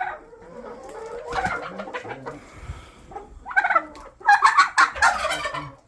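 Laying hens clucking and squawking in a coop, with a loud run of calls over the last two seconds.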